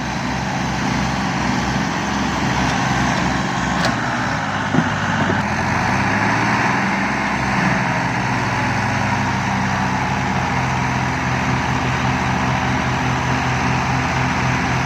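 Mahindra 575 and John Deere 5310 tractor diesel engines running hard under load in a tug of war, with a pulsing low firing rhythm; the wheels are spinning and digging into the ground. A brief knock about five seconds in.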